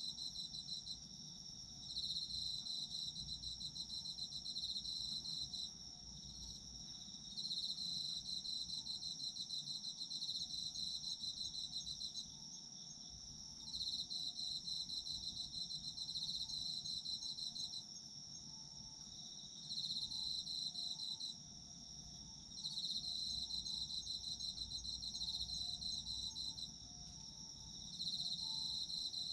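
Autumn insects, crickets, singing: one holds an unbroken high trill while another sings a slightly lower pulsed trill in phrases of a few seconds, broken by short pauses. Fainter, lower chirps sound beneath them.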